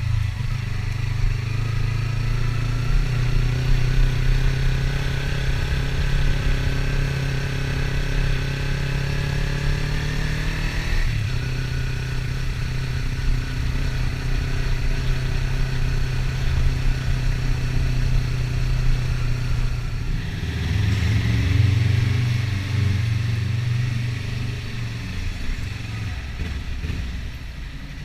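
Kawasaki Ninja 300's parallel-twin engine under way. Its pitch climbs steadily for about ten seconds, then drops abruptly and holds steady. It revs up again briefly about two-thirds of the way through and eases off near the end.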